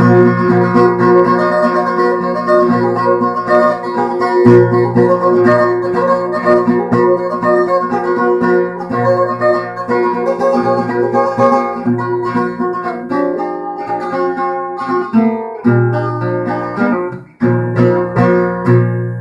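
Solo acoustic guitar playing the song's closing instrumental bars, a busy run of picked notes with no voice. A brief break comes near the end, then a final chord is struck and left to ring out.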